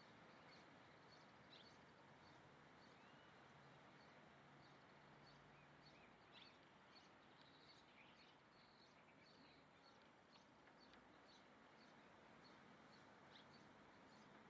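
Faint, high, short chirps of small birds, scattered throughout over a steady low hiss.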